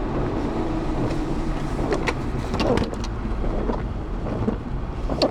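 Car driving, heard from inside the cabin: a steady low rumble of road and engine noise with a few scattered clicks and knocks.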